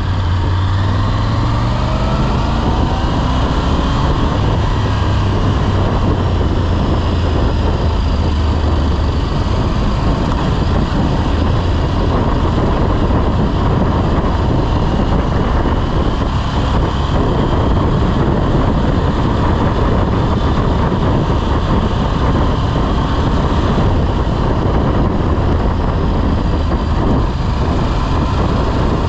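Motorcycle engine under way, rising in pitch as it accelerates over the first few seconds and then running steadily at cruising speed, with wind rushing over the microphone.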